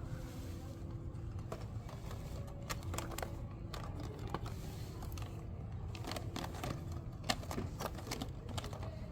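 Handling noise: scattered light clicks and taps, one slightly sharper about seven seconds in, over a steady low hum of store ambience.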